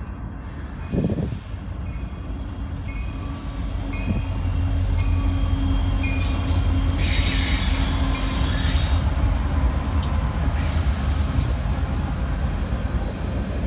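Union Pacific freight train's diesel locomotives passing close by, a heavy low rumble that swells from about four seconds in and then runs steadily as the engines give way to rolling freight cars. A burst of high-pitched hiss comes about halfway through.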